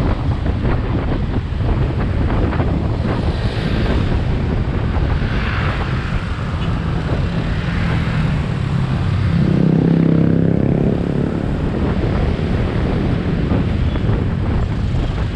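Motorcycle riding in road traffic: steady engine drone mixed with wind rushing over the microphone. About ten seconds in, a louder pitched engine note swells for a second or so, then fades back into the drone.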